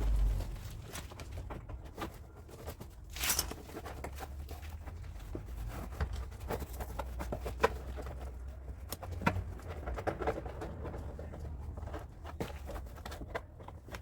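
Scattered light taps and clicks over a steady low hum, with a brief rustling noise about three seconds in.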